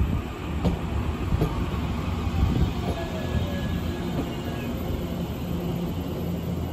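Electric multiple-unit commuter train moving slowly along a platform: a steady low rumble of wheels on rail with a few sharp knocks in the first second and a half and a faint traction-motor whine that falls in pitch around the middle.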